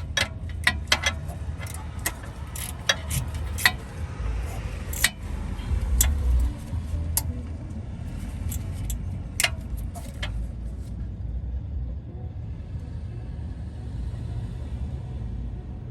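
Sharp metallic clicks and clinks of a hand tool tightening the 5 mm bolt on a new rear ABS wheel-speed sensor, coming at irregular intervals for about the first ten seconds, then stopping. A steady low rumble runs underneath throughout.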